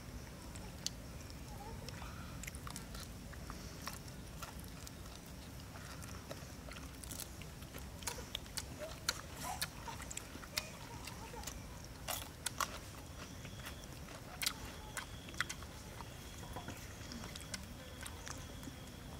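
Close-up chewing and biting of cooked cow stomach (tripe) wrapped in a leaf: irregular wet mouth clicks and smacks, most frequent in the second half.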